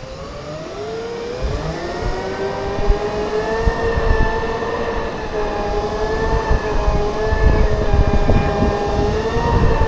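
Segway electric drive motors whining, rising in pitch as they pick up speed over the first few seconds and then holding a steady whine, with wind rumbling on the microphone.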